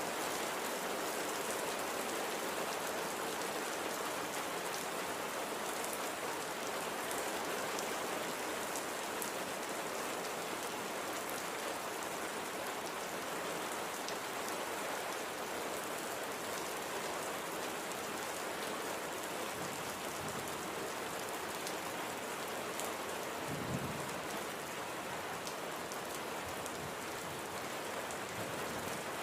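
Steady light rain falling, with fine drop ticks over an even hiss. A single brief low thump about three-quarters of the way through.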